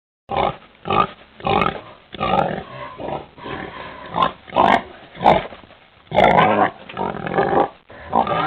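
Pig grunting, a run of about a dozen short, irregular grunts.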